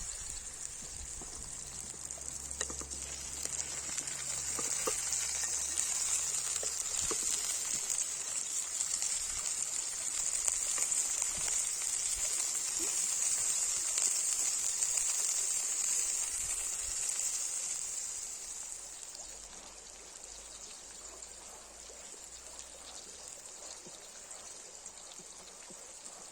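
Burger patties sizzling as they fry: a steady hiss with small crackles that falls away about two-thirds of the way through.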